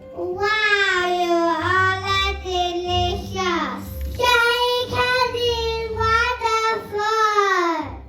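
A child singing two long, high, held phrases, each ending with a falling slide in pitch, over a low pulsing accompaniment.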